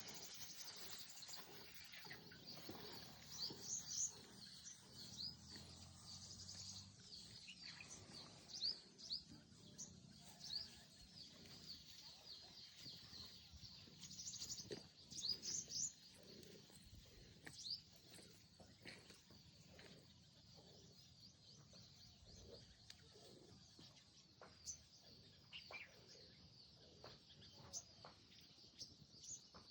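Small birds chirping and tweeting: many short, high calls scattered throughout, a few louder bunches among them, over a faint rural background.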